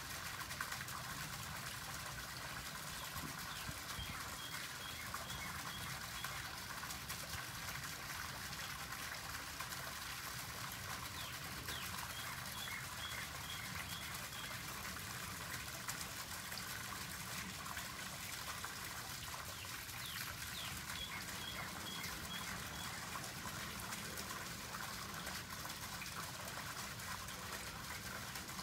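A songbird repeating a short phrase of about six evenly spaced high notes, roughly three a second, about every eight seconds, with a few brief rising chirps in between. Under it runs a steady outdoor hiss.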